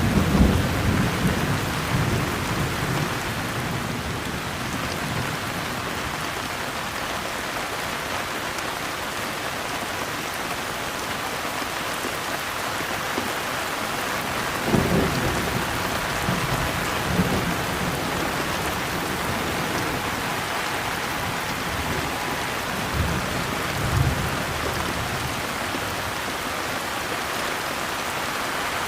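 Steady rain with low rolls of thunder: one right at the start, another about halfway through, and a shorter one a few seconds before the end.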